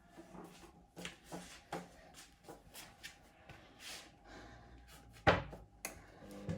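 Hoover Link washing machine in its main wash: soft irregular knocks and swishes of wet laundry in the drum, with one sharp knock about five seconds in, and the drum motor starting to hum near the end.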